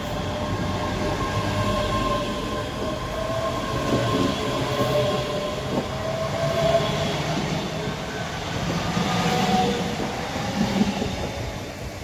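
Passenger train running past at close range: a steady rumble of wheels on rail with a faint whine and a few clacks. It eases off near the end as the last coach clears.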